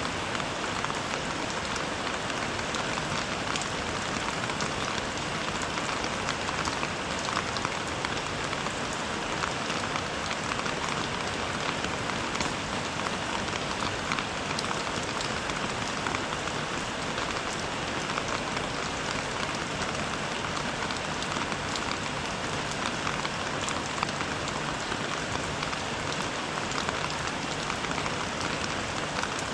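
Steady rain falling, a dense even hiss made of countless individual drop impacts, with no let-up.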